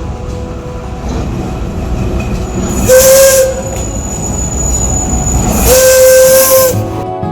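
Train on the Alishan Forest Railway running with a steady low rumble and sounding its whistle twice, a short blast and then a longer one, each with a hissing rush.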